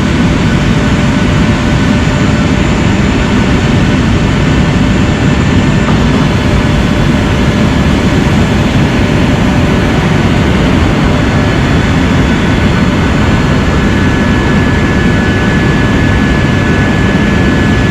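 Parked Boeing 737's running systems giving a steady loud rumble with a thin, constant high whine, as the flaps are commanded down.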